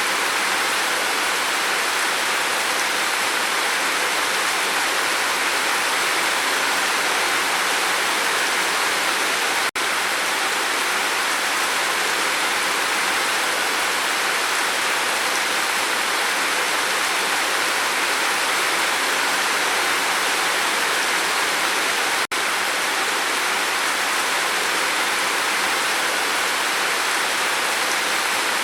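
Steady, heavy rain falling on a roof: a dense, even hiss that cuts out for an instant twice.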